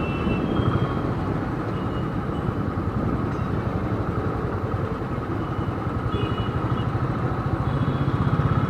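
Royal Enfield Thunderbird's single-cylinder engine running at low speed in traffic, a steady even pulse heard from the rider's own bike.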